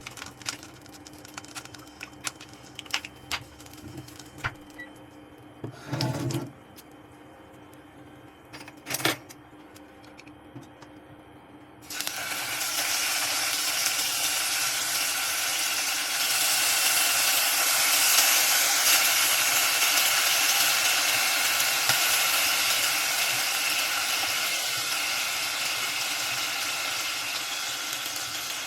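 Small kitchen clicks and two knocks, then food starts sizzling in a hot pan about twelve seconds in, a steady frying hiss that swells and then eases slightly.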